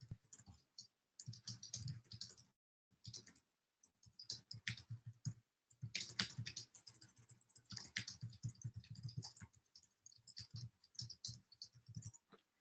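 Typing on a computer keyboard: quick, irregular key clicks in bursts, with short pauses between them.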